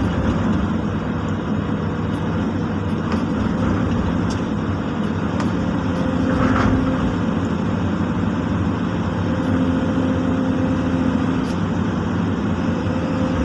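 Excavator's diesel engine running steadily, with an extra low tone that comes and goes twice, around the middle and again later.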